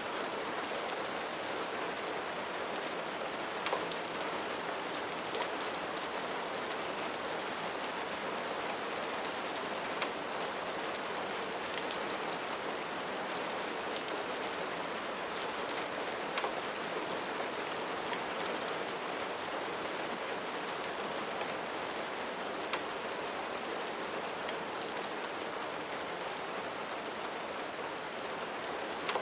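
Steady rain falling and pattering on a surface, with a few sharp ticks scattered through it.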